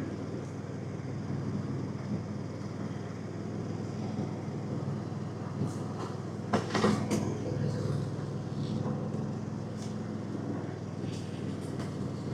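A small engine running steadily, with a few clicks or knocks about six and a half to seven seconds in.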